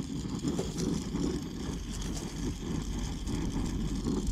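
Brazing torch flame burning steadily on a copper refrigerant-line joint as it is heated for solder, a low rushing rumble.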